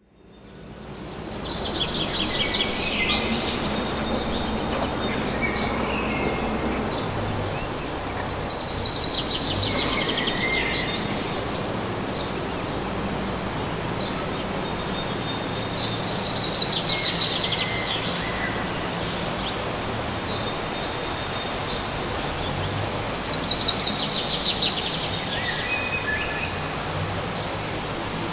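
Steady urban outdoor hum, fading in over the first couple of seconds. Over it a bird gives a high, rapid trilling call with a lower note after it, repeated four times about every seven seconds.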